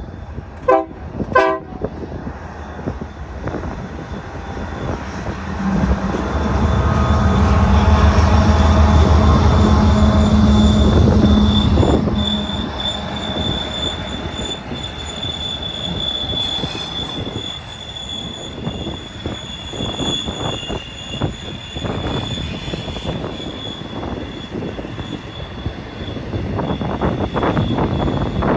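BNSF intermodal freight train passing on a steep downgrade. The locomotives' diesel engines rumble loudly as they go by, from about 6 to 12 seconds in, and the cars follow with wheel clatter and a steady high-pitched wheel squeal.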